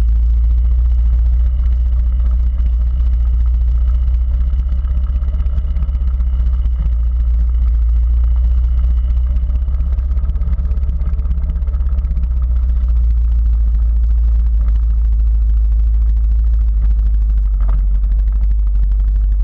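Quad bike (ATV) engine running steadily under way, with a heavy low rumble.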